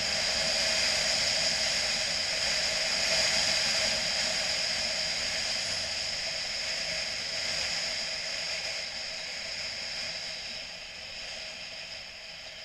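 Steady rushing noise of a motorcycle ride, mostly wind with road and engine noise beneath, fading away near the end.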